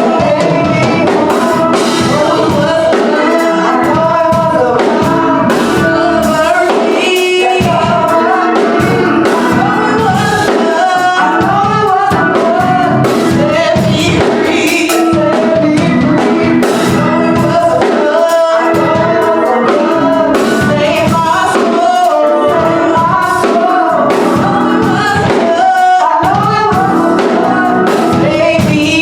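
Church praise team singing a gospel song with instrumental accompaniment and a steady drum beat.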